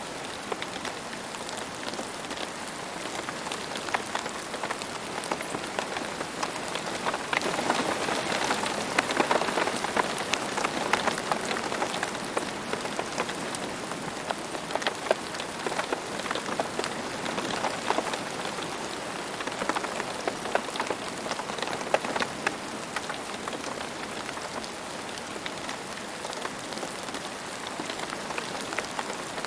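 Steady rain falling on a hard surface, an even hiss with many individual drops ticking through it. It swells somewhat heavier from about seven seconds in, then eases back.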